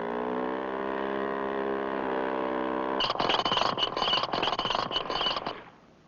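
A held chord from the cartoon's music score, then about halfway through an abrupt, rapid rattling sound effect that runs for a couple of seconds and fades out.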